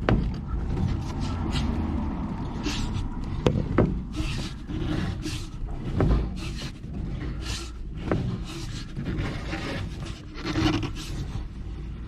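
Front strut top-mount bearing and coil spring of a 2009 Citroën Nemo creaking and rasping in rough, irregular bursts as the steering is turned, with a few sharp clunks. The bearing on top of the spring is clogged and sticking, so the spring jumps on it: a bearing that needs replacing.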